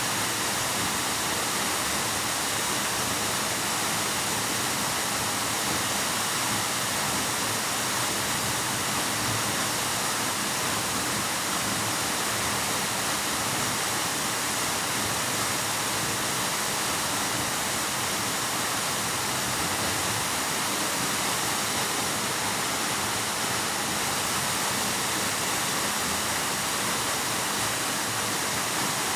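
Waterfall pouring in a steady, unbroken rush of falling water, its hiss weighted toward the high end with little deep rumble.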